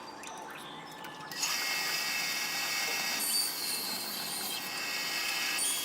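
A small power tool starts up about a second and a half in and runs steadily with a high whine, after a few faint clicks.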